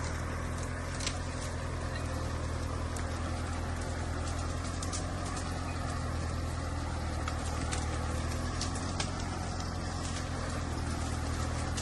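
Small Japanese tractor's engine running steadily with a deep hum, with occasional sharp clicks and knocks over it.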